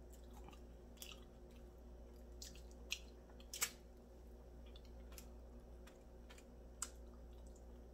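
Quiet chewing of a fried chicken drumstick, with a few short wet mouth clicks and smacks, the loudest about three and a half seconds in.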